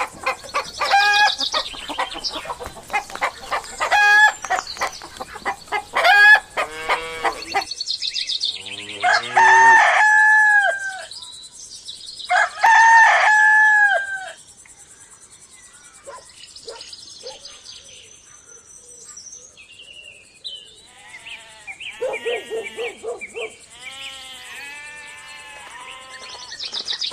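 Chickens clucking in short repeated calls, then a rooster crowing twice, each crow about two seconds long, about ten and thirteen seconds in. Softer clucking and chirping follows near the end.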